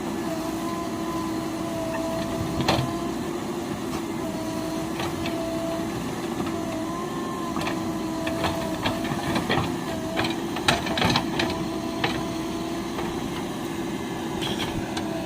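Heavy machine's engine running steadily with a held, slightly wavering whine, and scattered sharp knocks and clanks that cluster about two-thirds of the way in.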